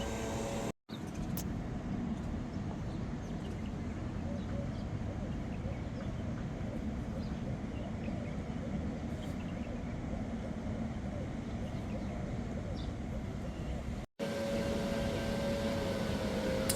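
Steady outdoor background rumble like passing traffic, cut off by two brief complete dropouts, about a second in and again near the end.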